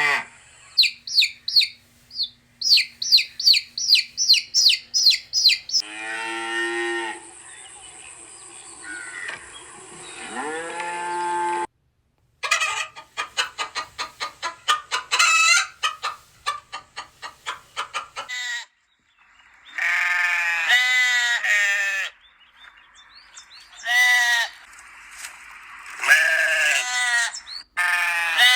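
A run of different animal calls cut one after another: fast, high repeated chirps for the first few seconds, then lower drawn-out calls, another stretch of rapid chirping, and more pitched calls near the end.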